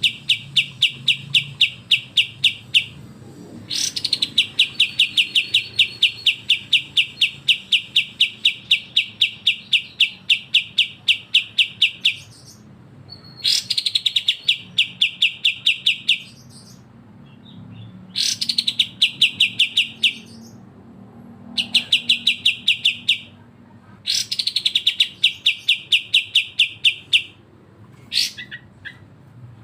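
A songbird's rapid chattering call (besetan), fast evenly repeated notes in long runs of several seconds, broken by short pauses and a few single notes near the end.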